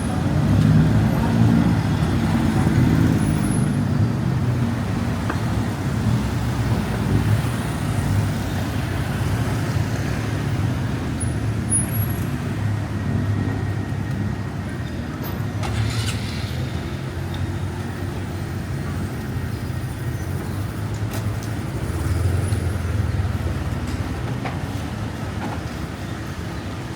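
City street traffic: a steady rumble of passing motor vehicles.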